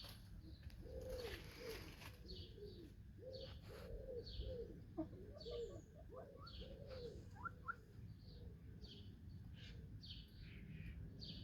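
Hens giving a quick series of quiet, low clucking calls for the first seven seconds or so, over wild birds chirping again and again in short falling notes.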